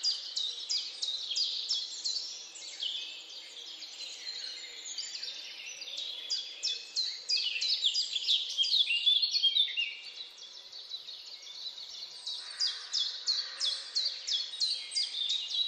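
Birds chirping: a dense run of short, high, falling notes, several a second and overlapping, thinning out briefly about two-thirds of the way through.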